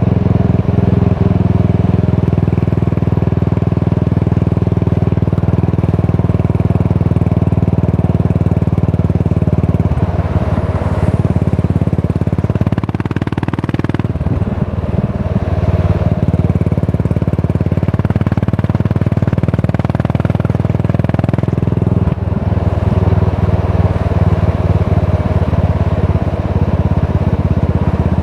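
Yamaha SR400's single-cylinder four-stroke engine running under way through a Goods Tapered Cone slip-on muffler, a steady exhaust note that changes pitch and load about ten seconds in, again around thirteen seconds, and at about twenty-two seconds.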